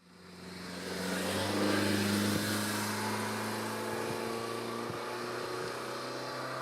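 Steady engine hum of a motor vehicle, fading in over the first second or so and then holding level.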